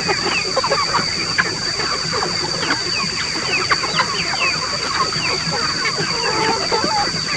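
A large flock of chickens calling all at once, a dense crowd of overlapping short high peeps and clucks, over a steady high-pitched whine.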